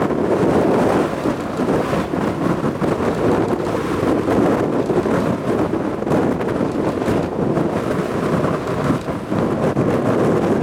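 Jet aircraft roar from the Blue Impulse's Kawasaki T-4 jets, a loud steady rumble mixed with wind buffeting the microphone.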